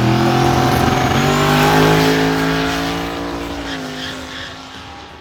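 Drag race car at full throttle down the strip, its engine rising steadily in pitch as it accelerates and then fading quickly into the distance in the last second or two.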